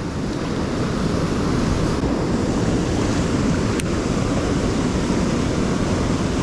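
Fast river current rushing over rocks: a steady noise of moving water. A single brief click just under four seconds in.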